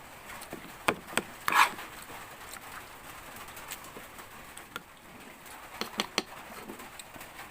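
Steady patter of heavy rain, with a few sharp clicks and knocks: three close together about a second in and two more near six seconds.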